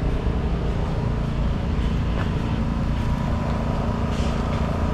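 A steady low hum with a faint steady high tone above it, and a few faint ticks.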